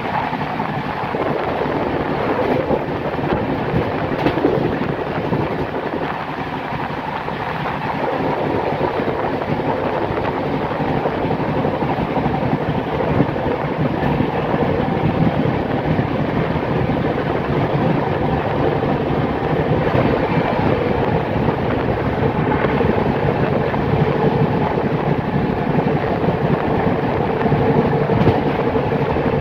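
Shatabdi Express passenger coach running at speed: a steady rumble of wheels on rails, heard through an open coach door with wind noise.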